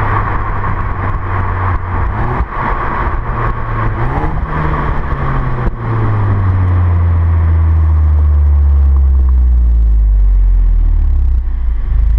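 Engine and exhaust of a VW Golf 7 GTI Performance with its turbocharged 2.0-litre four-cylinder, rising briefly in revs about four seconds in. From about six seconds it turns into a louder low drone that slowly falls in pitch.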